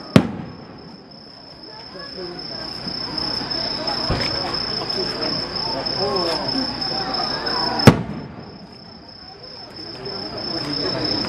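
Fireworks bursting outdoors: a sharp bang just after the start and another near 8 s, with a duller low thud about 4 s in. A steady high insect trill runs underneath.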